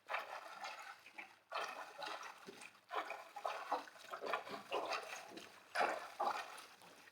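Lake water splashing and sloshing in irregular bursts, about one a second, from a swimmer's strokes.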